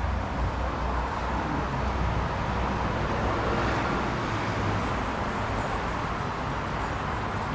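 1972 Johnson 65 hp two-stroke outboard motor running steadily at a constant speed.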